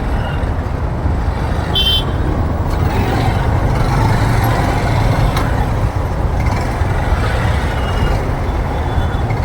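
Steady wind buffeting and road rumble from riding a motorbike through city traffic, with a short vehicle horn beep about two seconds in.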